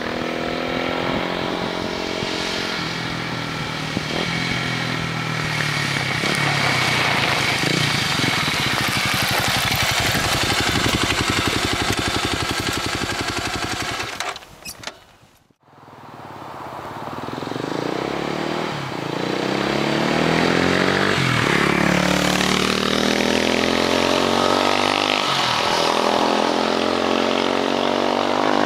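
Kawasaki KLX250S single-cylinder four-stroke with an FMF Q4 muffler and Powerbomb header exhaust, riding by while accelerating and shifting up through the gears: the engine pitch climbs and drops back at each shift. About halfway it cuts off sharply to near silence, then another pass of revving and upshifting follows.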